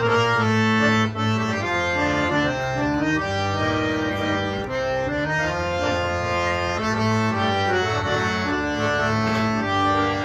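11-scale harmonium with premier reeds playing a solo melody: reedy sustained notes moving step by step over a held low note.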